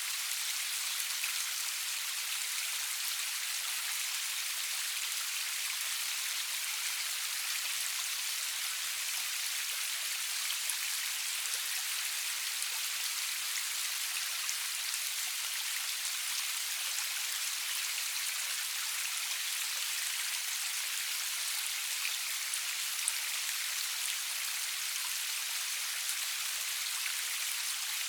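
Steady rain falling, an even hiss with scattered sharper drop ticks, no thunder.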